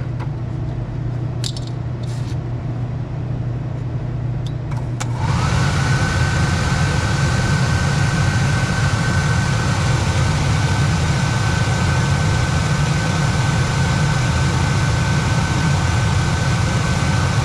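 Low steady machine hum with a few clicks; about five seconds in, the diesel burner's blower motor starts, its whine rising and then holding at a steady pitch over a rush of air. The burner is being tried for ignition, and its 12-volt ignition transformer is bad.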